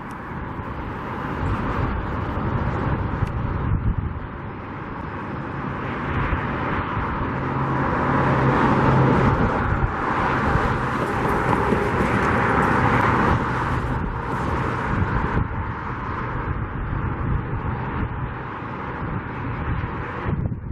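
Road traffic and wind on the microphone, with a passing engine sound growing louder toward the middle and fading again.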